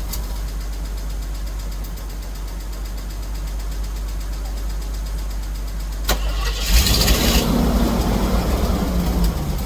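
An old Jeep engine running at idle with a steady low rumble. About six seconds in there is a sharp click, then about a second of loud hiss as the engine sound swells briefly.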